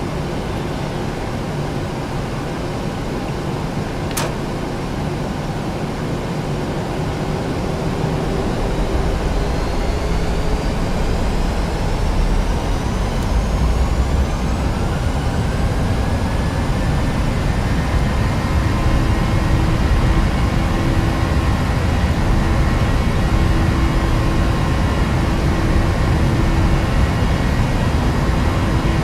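Boeing 737-800's CFM56-7B turbofan engines spooling up, a whine rising in pitch over several seconds and then holding steady as the engine noise grows louder. A single sharp click about four seconds in.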